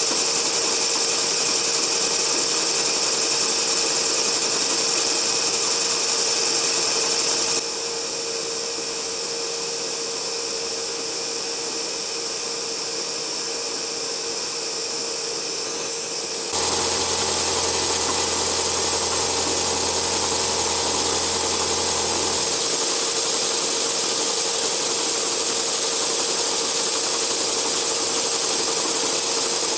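Metal lathe running steadily with a constant whine while facing a mild steel blank. The sound drops suddenly about eight seconds in and returns about nine seconds later, then carries a low hum for several seconds.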